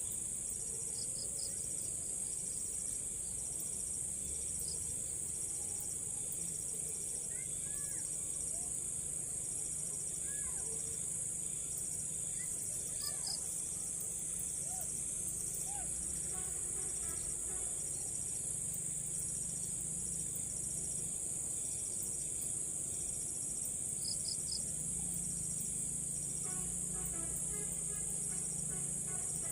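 Steady, high-pitched chorus of insects trilling without a break, with a few faint short chirps here and there.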